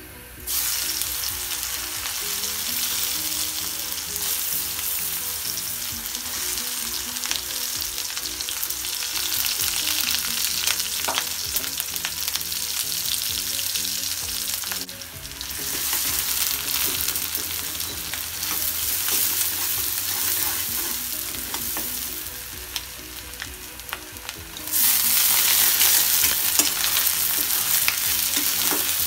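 Crushed garlic, chopped onion and green chillies dropped into hot mustard oil in a steel karai start sizzling about half a second in, with a spatula stirring. After a short lull a bit past the middle the sizzle picks up again. About four seconds from the end it jumps louder as raw small shrimp go into the oil.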